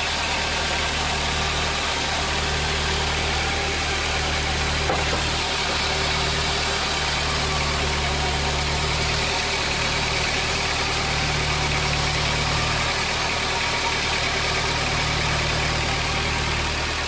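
Sawmill machinery running steadily: a low engine-like hum with a constant hiss over it. The low hum grows and fades in strength every few seconds.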